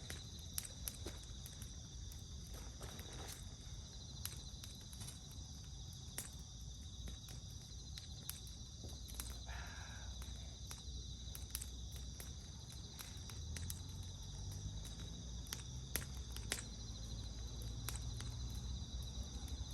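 Wood fire crackling, with irregular sharp pops scattered throughout, over a steady high chirping of insects.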